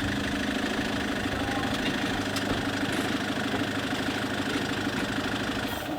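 Vehicle engine idling steadily with an even rhythmic pulse.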